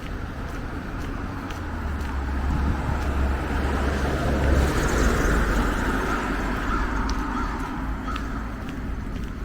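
A car passing on the street, its tyre and engine noise swelling to a peak about halfway through and then fading away. A few short bird calls can be heard near the end.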